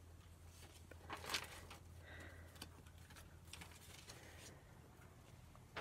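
Faint rustling and a few light taps of paper being handled, over a low steady electrical hum.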